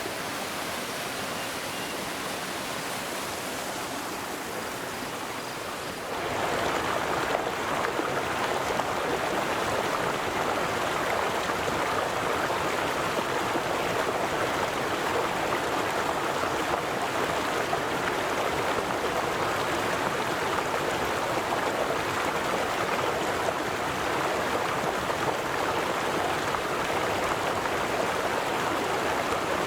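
River water flowing, a steady rush. About six seconds in it jumps abruptly to a louder, fuller rush.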